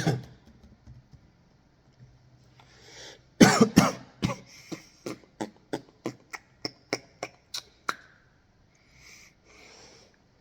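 A man coughing: a sharp cough at the start and a couple more about three and a half seconds in. They are followed by a run of evenly spaced clicks, about two or three a second for some four seconds, like slow typing on a computer keyboard.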